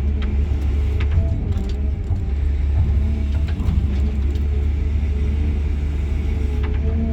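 Cat 323 GC excavator's diesel engine running, heard from inside the cab as a steady deep drone. Faint wavering whines sit above it, with a few light clicks.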